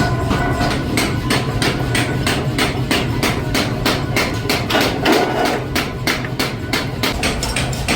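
Rapid, even hammering on metal, about four to five blows a second, over a steady machine hum.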